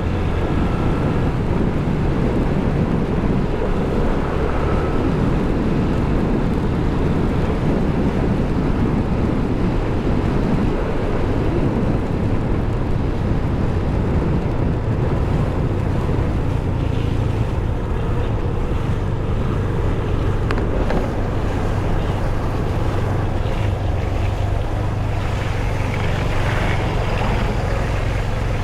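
Wind buffeting the helmet microphone of a moving motorcycle, with the steady low drone of a Yamaha FZ25's single-cylinder engine underneath.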